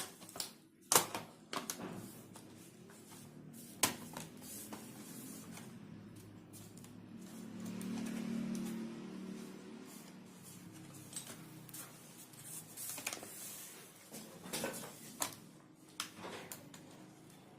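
Scattered clicks and knocks of plastic laptop parts being handled and pressed into place during reassembly, the loudest about a second in. A low hum swells and fades midway.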